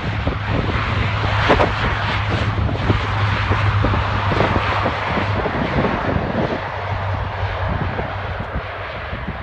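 Lockheed C-130 Hercules's four turboprop engines at takeoff power: a steady low propeller drone under a broad rushing roar. It is loudest a couple of seconds in and fades toward the end as the aircraft moves away.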